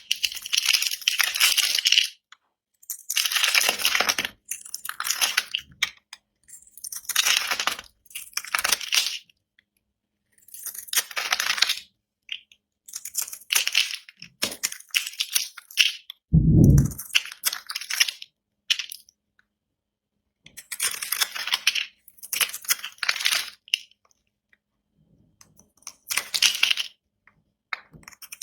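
A blade cutting through dry bar soap in a series of short crisp crunching cuts, each a second or two long, with brief pauses between. A single low thump comes about halfway through.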